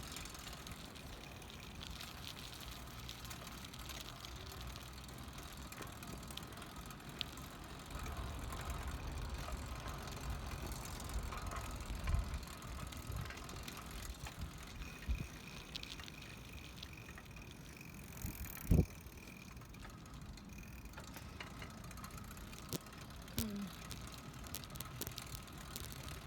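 Riding a bicycle with a phone held in one hand: a steady low rumble of wind and tyre noise, louder for a few seconds a third of the way in, with scattered small clicks and rattles and one sharp knock a little past halfway.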